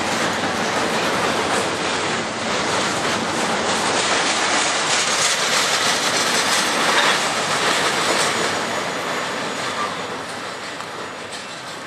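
Double-stack intermodal container cars of a freight train rolling past, the wheels clattering over the rail joints. The sound fades over the last few seconds as the cars move away.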